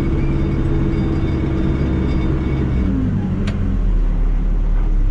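Caterpillar backhoe loader's diesel engine running steadily, its pitch dropping about three seconds in as the revs fall, with a single sharp click shortly after.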